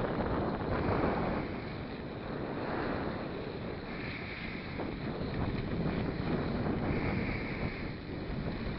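Wind rushing over the microphone during a mountain-bike ride, a steady noise that swells and eases.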